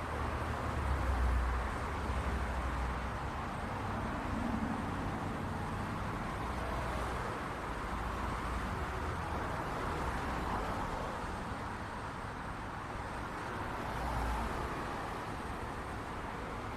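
City street traffic: a steady wash of car and road noise, with low rumbles swelling as vehicles pass, about a second in, around two and a half seconds and near fourteen seconds.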